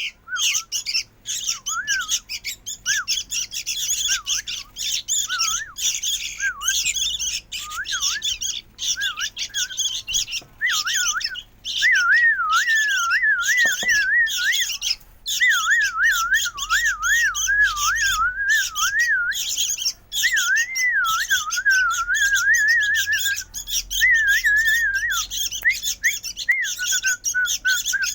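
Sooty-headed bulbul chick calling noisily and almost without pause: a fast, wavering, rising-and-falling chatter that grows louder and more continuous partway through.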